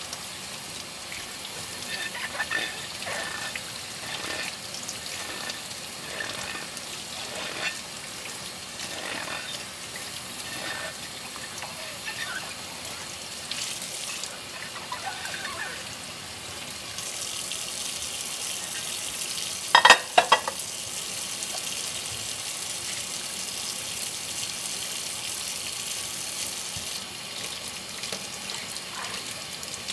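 Washing dishes by hand at a kitchen sink: tap water runs steadily while dishes knock and clink against each other. The water runs harder a little past halfway, and soon after come two loud, sharp clatters close together.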